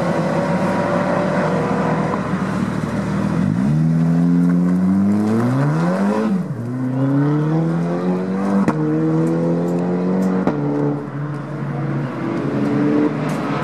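Touring race car engines running hard, one car accelerating through its gears: the engine pitch climbs, drops sharply at an upshift, and climbs again, with further gear changes near the end.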